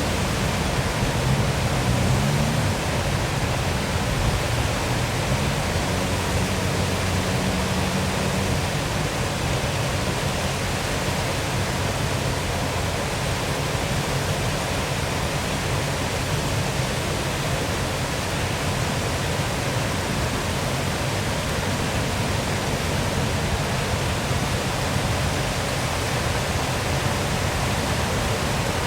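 Waterfall rushing steadily, a constant even wash of falling water. A low wavering hum lies under it for about the first eight seconds, then fades out.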